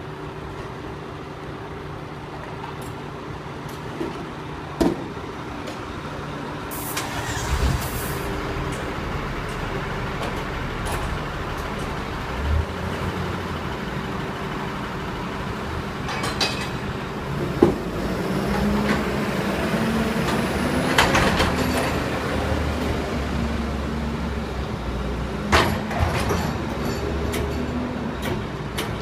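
Garbage truck's diesel engine running steadily, revving up about two-thirds of the way through as it works its hydraulics. Several sharp metal bangs and clanks are heard throughout.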